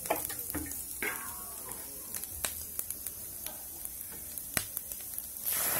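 Strips of bamboo shoot sizzling in a wok, with the spatula clicking and scraping against the pan as they are stirred. A louder rushing noise comes in near the end.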